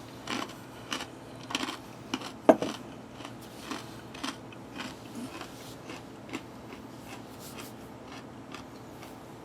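Chewing crunchy toasted corn nuts: a run of crisp crunches about every half second, the loudest about two and a half seconds in, settling into softer, scattered chews later.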